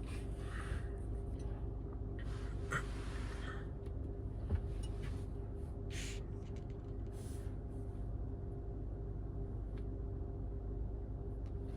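Steady low machine hum with a held tone, broken by a few short breathy hisses.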